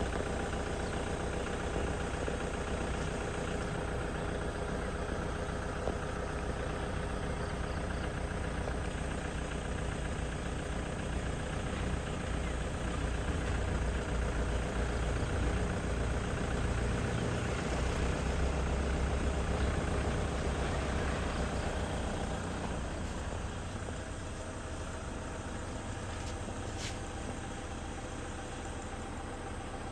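An engine running steadily, growing louder in the middle and easing off about two-thirds of the way through, with a single brief click near the end.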